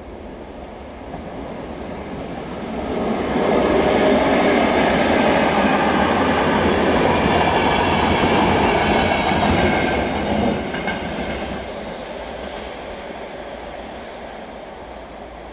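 Electric locomotive and passenger coaches passing close by on the rails. The noise builds over the first three seconds, stays loud for about seven seconds as the coaches go by, then fades as the train moves away.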